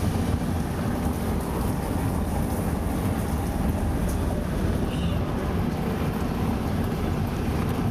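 Steady low rumble of a vehicle driving on a rural road, with wind buffeting the microphone.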